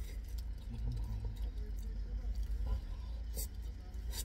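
A person chewing a mouthful of soft chicken chilli wrap, with faint small mouth clicks and rustles, over a low steady hum inside a car.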